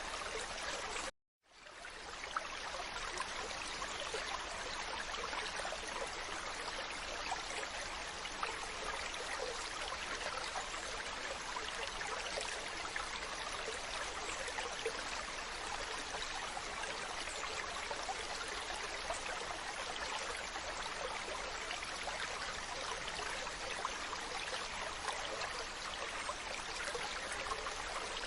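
Steady running, trickling water. A short gap of silence about a second in, then it picks up again.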